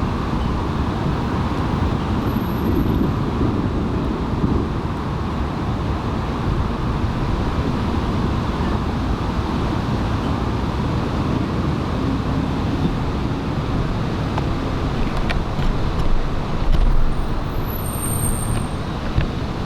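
Steady road-traffic rumble of passing cars, with faint engine hums rising and falling now and then.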